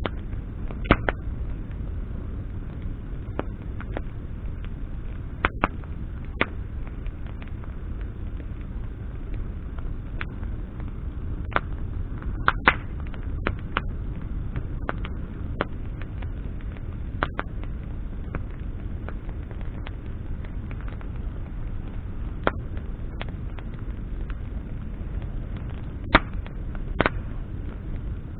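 Wood bonfire burning: sharp crackles and pops of burning branches at irregular intervals, a few in quick clusters, over a steady low rumble.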